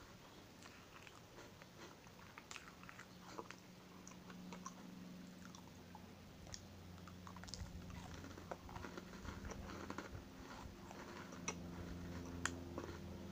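Close-up chewing of a crunchy wheat biscuit, with scattered crisp crackles as it breaks up. A faint low hum comes in about four seconds in and grows louder.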